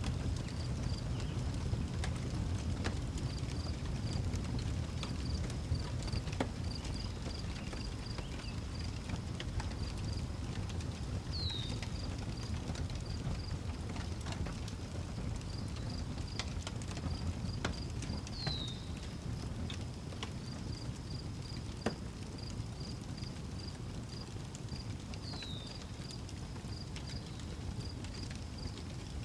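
Outdoor wood fire crackling, with scattered sharp pops over a low steady rumble, under crickets chirping in rapid high pulses. A bird repeats a short, high, falling call about every seven seconds.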